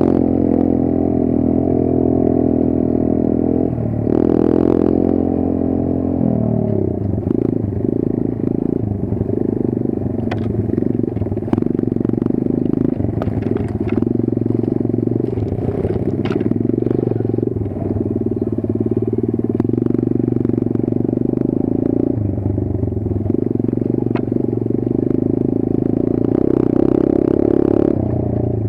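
Kayo 140 pit bike's single-cylinder four-stroke engine running while ridden, its pitch shifting over the first several seconds and then holding steady, with scattered sharp clicks and clatter.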